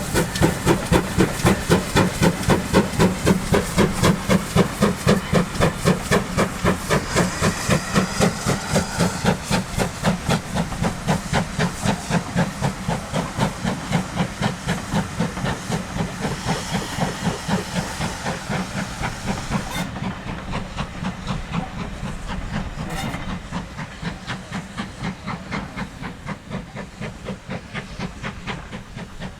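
Great Western steam tank locomotive working hard, its exhaust beating evenly about three times a second with a steady steam hiss. The beats grow quieter in the last third as the engine draws away.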